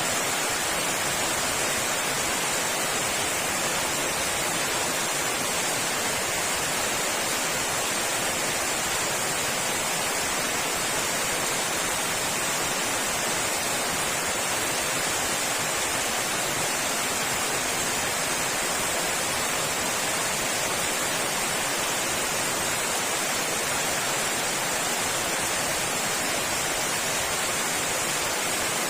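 Heavy rain falling, a steady, even hiss with no let-up or gusts.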